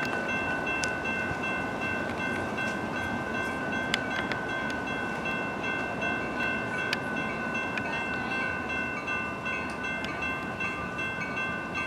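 Train running at the station: a steady rumble with a steady high whine held throughout and a few sharp clicks.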